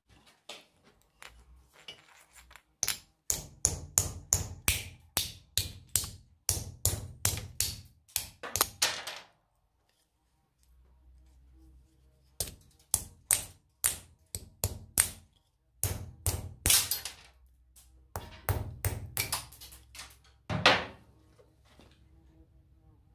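Hammer tapping a small metal cable-end fitting on a small steel anvil, in quick runs of light blows about three a second, with a short pause in the middle and one louder blow near the end.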